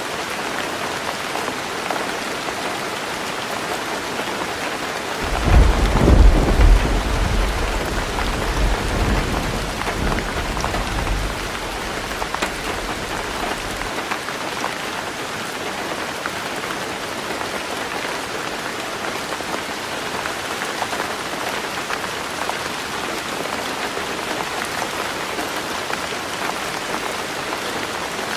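Heavy rain drumming steadily on a roof. About five seconds in, a roll of thunder breaks in, loudest at first, then rumbles away over several seconds.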